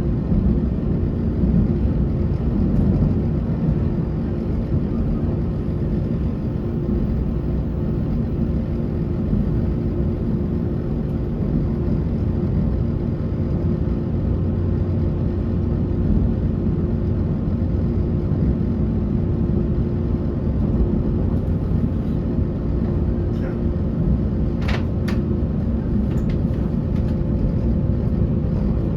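Passenger train running at speed, heard from inside the carriage: a steady rumble of wheels and running gear with a low steady hum, and a few sharp clicks near the end.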